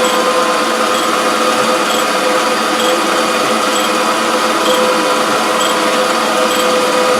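Surface grinder running steadily: a constant motor and wheel hum with a whine, and faint light ticks about once a second.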